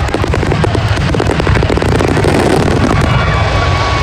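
Aerial fireworks going off in a dense, continuous barrage of bangs and crackles, with no pause between shells.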